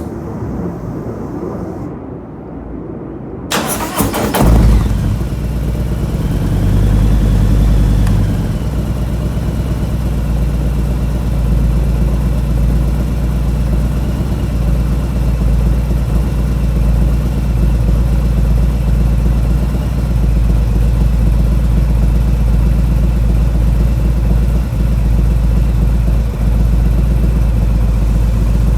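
Harley-Davidson Milwaukee-Eight 107 V-twin breathing through an S&S Sidewinder 2-into-1 catless race exhaust with the dB reducer removed. The engine starts about four seconds in, runs a little higher for a couple of seconds, then settles to a steady idle with a really deep tone.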